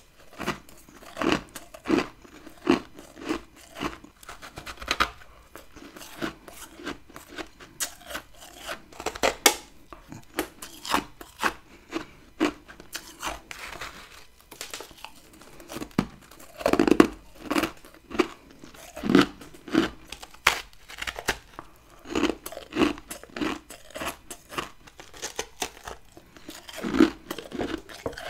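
Close-up crunching and chewing of chunks of freezer frost ice, a steady run of crisp crunches about one to two a second. A few louder bites come about two-thirds of the way through and again near the end.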